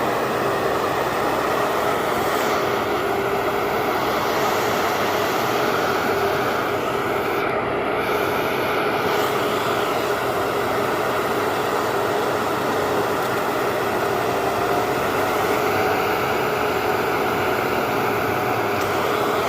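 Heavy diesel engine running steadily at constant speed, a dense, even drone with a low hum that does not rise or fall.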